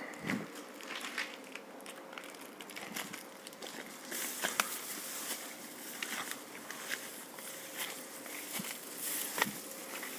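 Footsteps crunching and crackling underfoot, irregular steps with scattered clicks.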